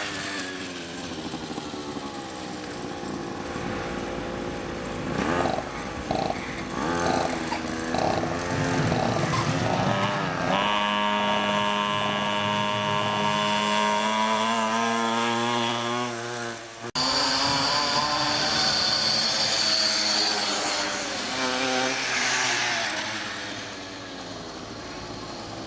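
Minibike's small engine running and revving as it is ridden, its pitch rising and falling, held high and steady for several seconds in the middle. The sound breaks off abruptly about two-thirds of the way through and the engine picks up again.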